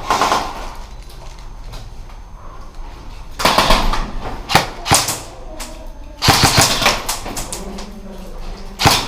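Airsoft guns firing: a couple of short bursts of rapid clicking shots, about three and a half and six and a half seconds in, with single sharp shots between them and another near the end.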